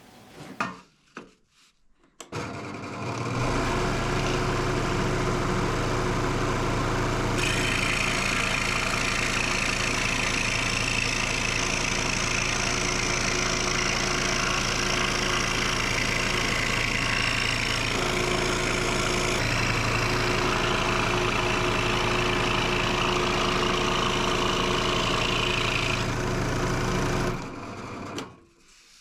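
An electric woodworking power tool is switched on and runs at a steady speed, then is switched off near the end. From about seven seconds in until shortly before it stops, a brighter hiss rides on the motor, with a short break partway through, as the tool works the wood.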